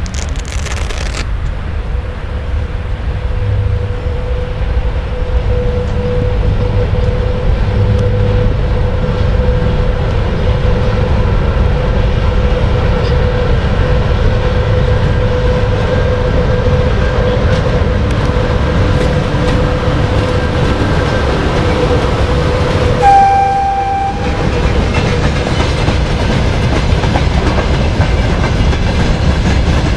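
VL80K electric locomotive hauling a loaded freight train past: a steady rumble with a steady whine, then one short horn blast about two-thirds in, followed by the clickety-clack of tank cars and open wagons rolling by over the rail joints.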